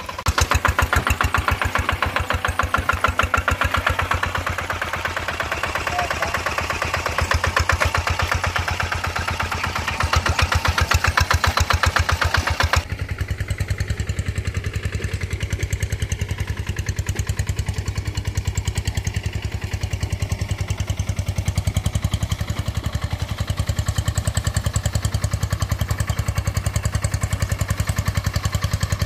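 Paddy-field tractor engine running steadily with a rapid, even putter. About 13 s in, the higher sounds drop away abruptly while the engine's low pulsing carries on.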